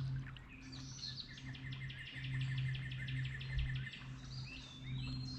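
A songbird singing a rapid trill of evenly repeated notes, about six a second, for some three seconds, followed by a short rising whistle. A low steady hum sits beneath it.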